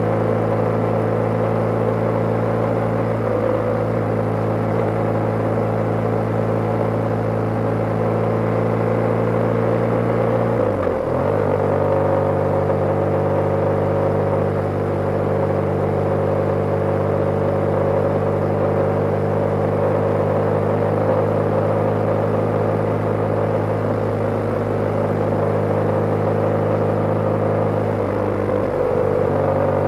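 BMW G/S motorcycle engine running steadily under way. The engine note dips briefly twice, about a third of the way in and near the end, then settles again.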